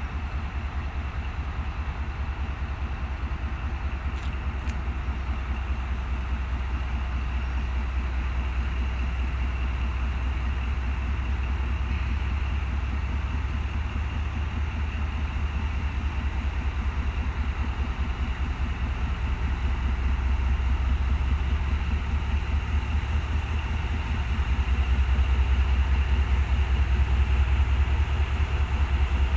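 ZCU-30 diesel-electric locomotive engine running with a steady, deep rumble, growing louder about 24 seconds in.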